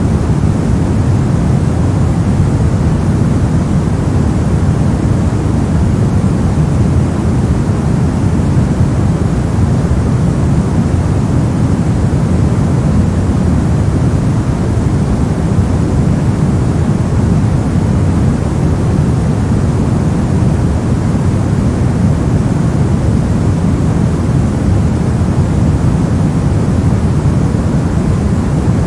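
Steady generated noise, unchanging throughout, with most of its energy in the low range, so it sounds like a deep rushing hiss rather than a bright one.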